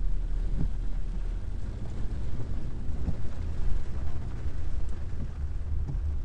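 Steady low rumble of a car driving, with wind noise buffeting the microphone.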